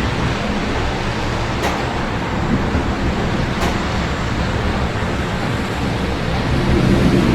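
Steady rain falling over a city, mixed with the continuous rumble of road traffic. Two faint ticks come about two seconds apart in the first half.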